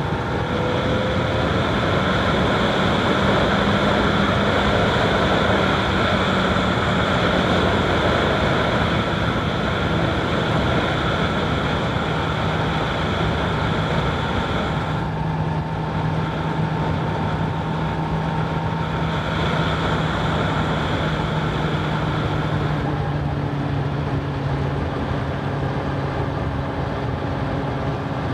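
Honda CBR1000RR SP's inline-four engine running as the motorcycle is ridden at a steady pace, with wind noise on the microphone. The sound's tone changes about halfway through and again near the end.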